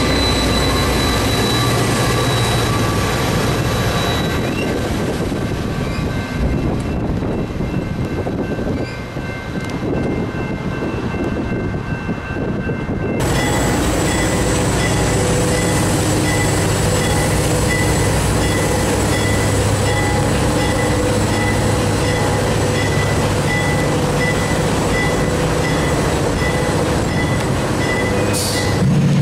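Freight train rolling by with its wheels squealing in steady high tones over a low rumble. The sound changes abruptly about 13 seconds in.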